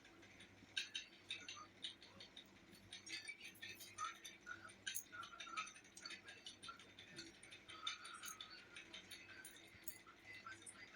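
Faint eating noises: many small scattered clicks and smacks of chewing and handling food, over a faint steady hum.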